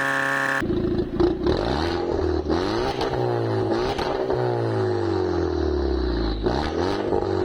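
Volkswagen Polo GTI with an Akrapovič exhaust revved at standstill in a series of throttle blips. Each rev climbs quickly and falls away slowly, repeated several times. A short steady tone sounds at the very start.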